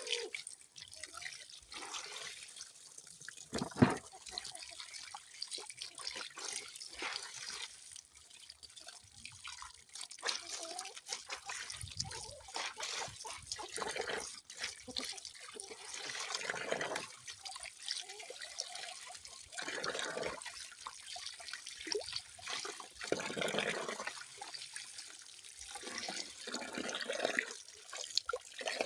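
Running water splashing and trickling unevenly, in irregular gushes with drips, like water from a tap. A single sharp knock stands out about four seconds in.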